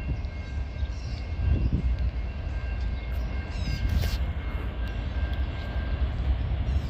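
Norfolk Southern diesel freight train running nearby: a steady low rumble.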